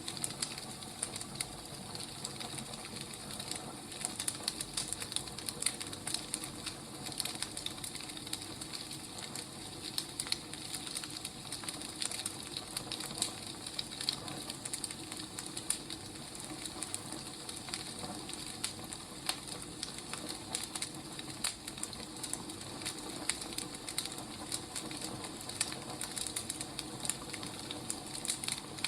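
Wood fire burning steadily with a constant hiss and many irregular small crackles and pops.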